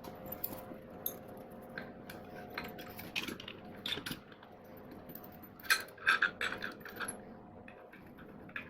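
Light metallic clicks and clinks of hand tools and small metal engine parts being handled, with a quick run of louder clinks about six seconds in, over a faint steady hum.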